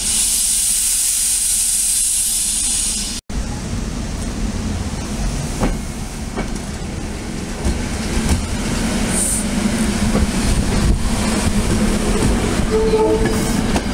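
SEPTA electric commuter train passing close by. A loud hiss fills the first three seconds, then, after an edit, the steady rumble and wheel clatter of passing rail cars, with a brief high squeal about nine seconds in.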